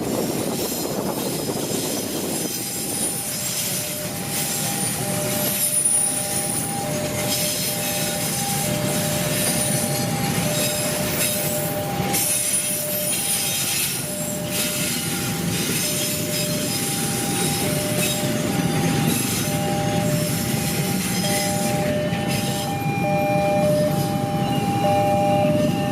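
An Indonesian train passing close by, a continuous rumble of wheels on the rails. From about two and a half seconds in, an alternating two-tone beeping warning signal sounds over it.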